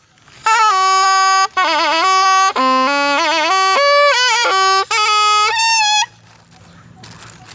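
A Thai pi, a reed oboe, playing a solo melodic phrase with held notes, trills and pitch bends; it stops about six seconds in.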